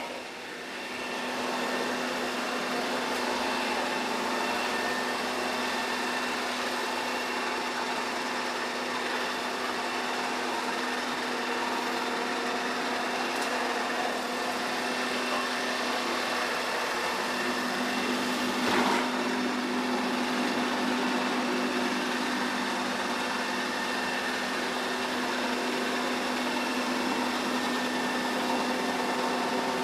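Narwal Freo Z Ultra robot vacuum running while it cleans a hard floor: a steady motor hum with constant tones. A single brief knock about two-thirds of the way in.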